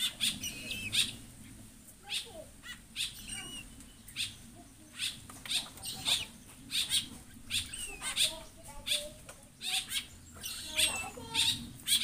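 Birds calling: a steady run of short, sharp chirps, about two to three a second, with some squeaky gliding notes between them.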